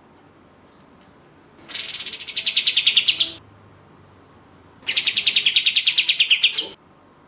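Kapas tembak bulbul singing two bursts of its rapid 'tembak' rattle, about ten sharp notes a second. The first burst starts high and drops partway through; the second follows about a second and a half later.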